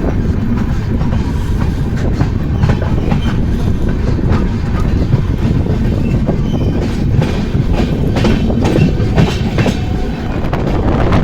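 Amrit Bharat Express train running, a heavy steady rumble with wheels clacking over rail joints; the clacks come thicker in the second half.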